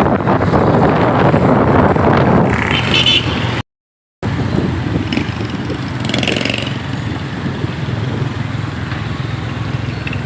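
A motorcycle riding on the road: engine and road noise mixed with wind rushing over the microphone. The sound cuts out completely for about half a second just under four seconds in.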